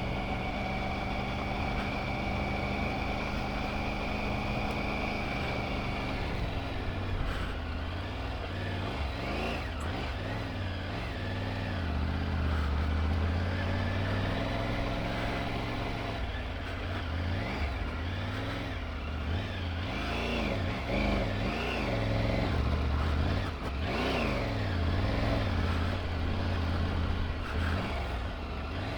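Triumph Tiger 900 Rally Pro's three-cylinder engine running steadily for about six seconds, then revving up and down over and over as the throttle is opened and closed.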